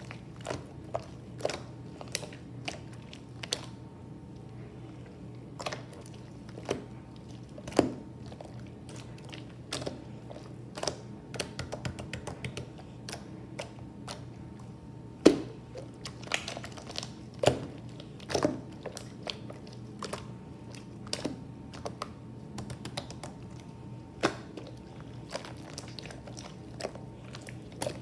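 Light-green butter jiggly slime being pressed and stretched by hand, giving irregular small pops and clicks, the loudest about halfway through.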